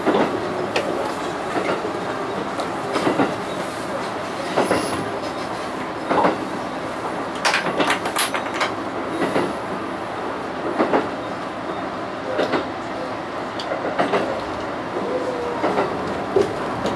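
Diesel railcar running along jointed single track, heard from the driver's cab: a steady running noise with wheel clicks over the rail joints coming about every one and a half seconds, some as quick double clicks.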